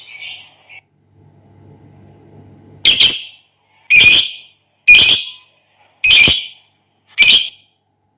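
Lovebird giving five loud, shrill squawking calls, each under half a second, spaced about a second apart, starting about three seconds in.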